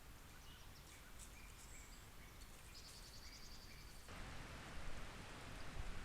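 Faint woodland ambience with small birds calling: scattered short high notes and a brief rapid trill. About four seconds in it switches abruptly to a louder steady hiss.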